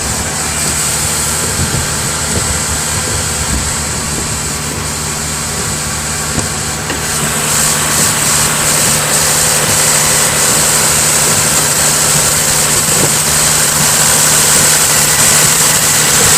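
2000 Mazda MPV's 2.5-litre Duratec V6 idling steadily shortly after a cold start.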